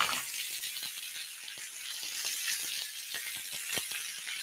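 Chicken kebabs sizzling on a hot griddle pan: a steady hiss with small crackles and pops scattered through it.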